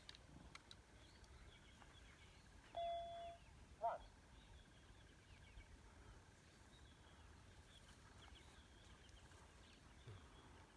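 Quiet bush ambience with faint birds chirping. A short held call near three seconds in and a quick sharp call about a second later stand out.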